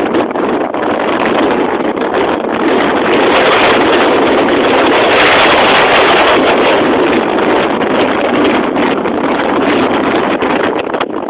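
Loud, steady rushing of wind over the microphone in a moving truck, with scattered crackles; it starts abruptly just before and cuts off about a second after.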